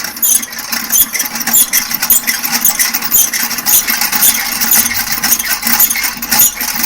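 Hand-cranked centrifugal honey extractor spinning comb frames, its gearing and drum giving a dense, rapid, irregular clicking rattle.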